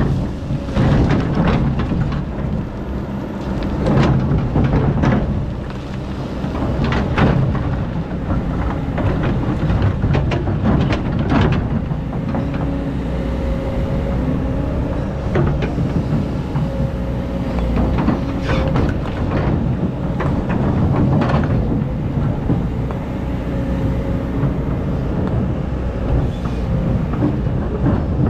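Excavator's diesel engine running steadily with a continuous whine, broken by repeated knocks and scrapes as it digs sand.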